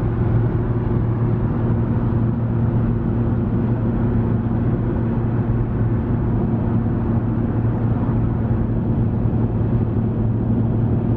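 Nissan GT-R R35's twin-turbo V6, with a custom titanium cat-back exhaust, running steadily at a motorway cruise. It is heard from inside the cabin as an even, low drone over road noise.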